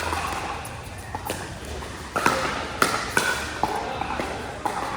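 Pickleball paddles hitting a plastic ball: several sharp pops echoing in a large hall, over faint background voices.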